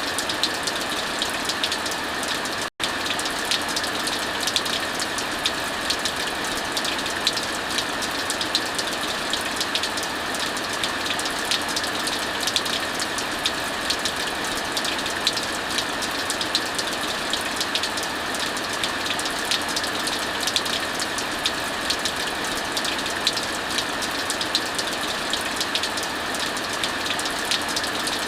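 Steady heavy rain together with a wood fire crackling, many small sharp pops scattered over the rain's even hiss. The sound drops out for an instant about three seconds in.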